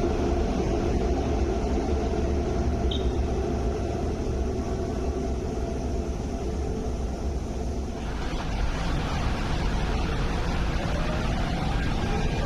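MTR Airport Express train running through the station behind glass platform screen doors: a steady low rumble with a humming tone that eases off. About eight seconds in, it cuts abruptly to a different open-air platform ambience with a faint rising tone near the end.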